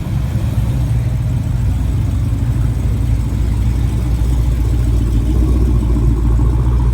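A car engine running steadily at low speed, getting a little louder near the end.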